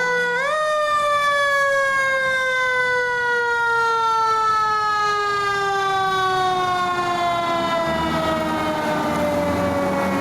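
A fire truck's mechanical siren is spun up briefly, then winds down in one long, slow falling pitch. A low truck engine rumble comes up near the end.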